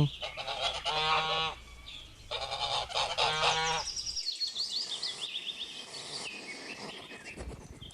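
Goose honking twice in the first half, then goslings peeping in quick runs of high, falling notes.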